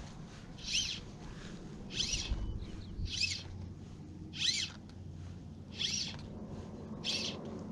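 A bird calling repeatedly: six short, high-pitched calls, about one every second and a quarter.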